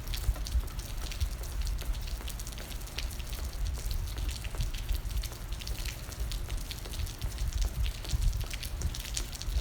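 Steady rain falling, with many single drops striking close by, over an uneven low thudding.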